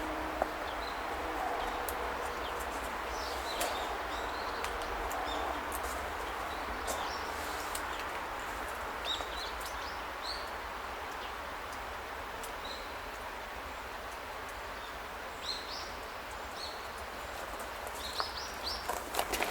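Small birds chirping in short, scattered calls over a steady outdoor background hiss, with a few clicks and rustles near the end.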